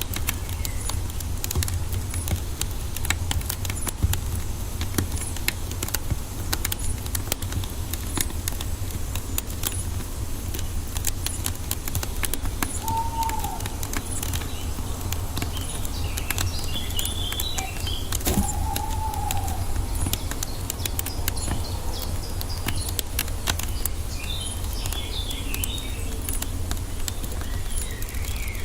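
Wood fire crackling, with irregular sharp pops and snaps over a steady low roar. Birds call a few times in the background: two short whistled notes about midway and twice a brief cluster of high chirps.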